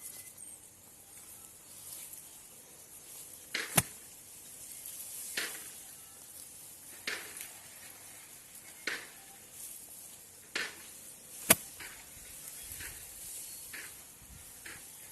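Repeated short strokes of hand-tool work, roughly one every one and a half to two seconds, two of them sharp, loud cracks, over a faint steady high hiss.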